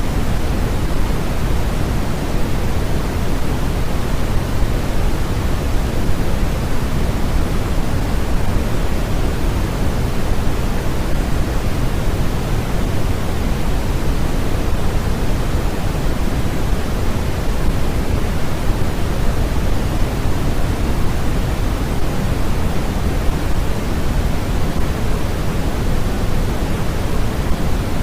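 Steady, unbroken generated noise with no changes or events. It is heavier in the low end than at the top, closer to pink noise than to a flat white-noise hiss.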